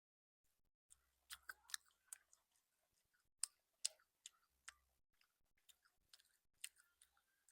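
A person chewing food close to the microphone: an irregular run of sharp, wet mouth clicks and smacks, starting about a second in, some much louder than others.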